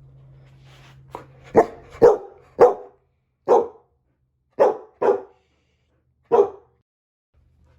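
Samoyed barking: about eight short barks at uneven intervals, the first faint, then a quick run of three, a pause, and a few more.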